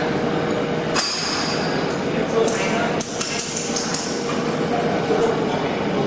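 Metal striking metal in a welding workshop: one ringing clank about a second in, then a quick run of sharper knocks and clinks between about three and four seconds, over steady workshop noise.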